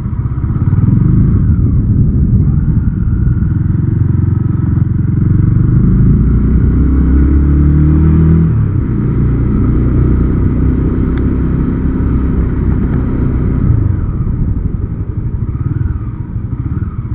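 Motorcycle engine running on the move, picked up by a helmet-mounted action camera, with a dense low rumble. The engine note climbs for a couple of seconds in the middle and then drops suddenly, as at a gear change, before running steadily on.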